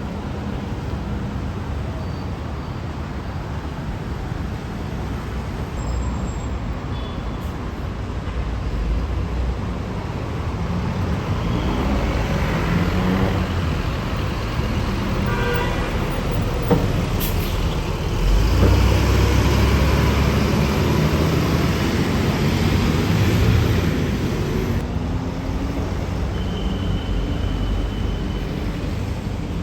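Passing road traffic, with a horn sounding briefly about halfway through. A heavy vehicle passes with a deep rumble, loudest about two-thirds of the way in, and the traffic noise eases off near the end.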